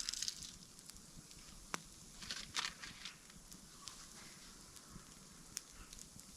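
Scattered sharp snaps and crackles, bunched together about two and a half seconds in, with light rustling over a faint steady hiss.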